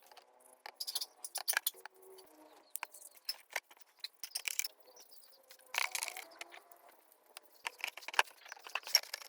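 Irregular clinking and tapping of small metal parts and tools: a series of sharp clicks and clanks at uneven intervals, some with a short ring.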